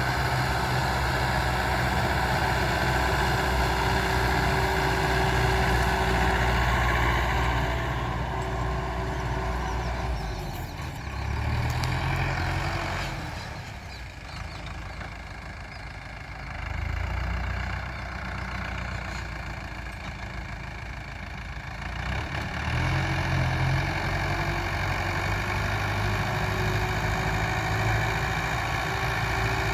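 Power tiller's single-cylinder diesel engine running steadily, easing down to a lower, quieter note for several seconds in the middle before picking back up.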